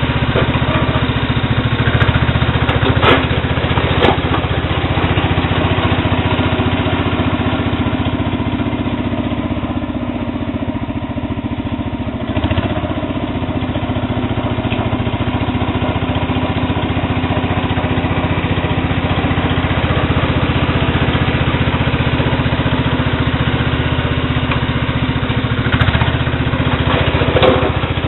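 Sears Suburban SS12 garden tractor's engine running steadily while it plows ice-crusted snow, with a few sharp knocks in the first few seconds and again near the end.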